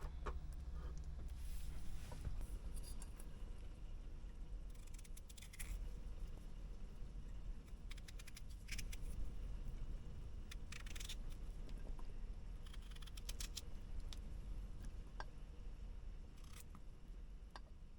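Small kitchen-handling sounds in a truck cab: scattered scrapes, rustles and short clicks, like cutting and handling food or packaging, over a steady low hum.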